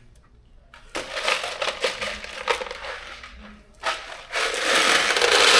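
Loose metal bolts rattling and clattering as they are handled and poured by the handful, with a longer, louder pour near the end.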